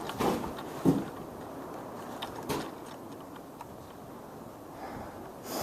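Paintball marker fired in single sharp pops, spaced out: one about a second in, another a second and a half later, and one near the end.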